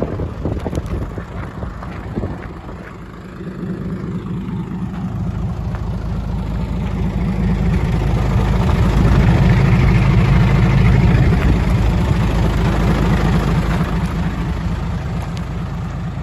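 Hino J08C six-cylinder diesel engine of a Hino Ranger dump truck running. It dips briefly about three seconds in, then its speed and loudness build to a peak around the middle and ease off again toward the end.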